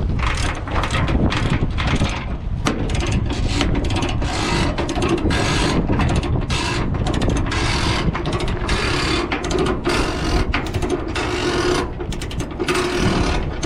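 Chain binder being worked to tighten a tie-down chain: an uneven run of mechanical clicks and metal clatter, with a low rumble of wind underneath.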